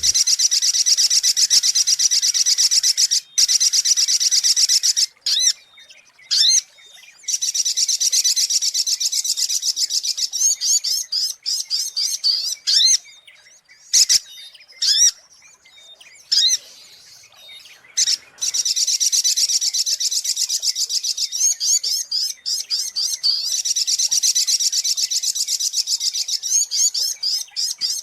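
Little spiderhunter (sogok ontong) giving its lure call: long, rapid trains of high chirps that break into short separate phrases with gaps in the middle, then run on steadily again.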